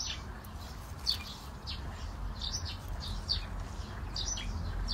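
Small bird chirping, short high falling notes repeated irregularly about twice a second, over a low steady rumble.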